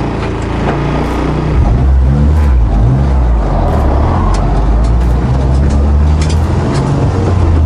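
Honda Integra Type R DC5's K20 2.0-litre four-cylinder engine running as the car drives off, getting louder about a second and a half in with its note shifting in pitch, then running steadily.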